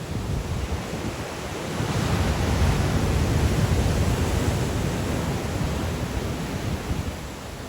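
Sea waves breaking on the shore in strong wind, with wind buffeting the microphone. A wave surges about two seconds in and washes back over the next few seconds.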